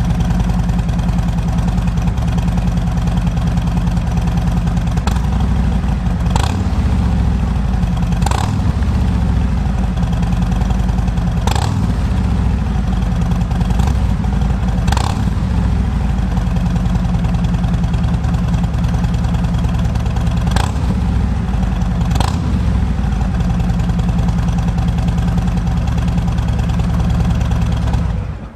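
Harley-Davidson Milwaukee-Eight V-twin running through Two Brothers Racing slip-on mufflers: idling, then revved several times with the throttle, then settling back to idle before it is switched off near the end. It has the deep, throaty note of the new mufflers, described as much better than the stock pipes.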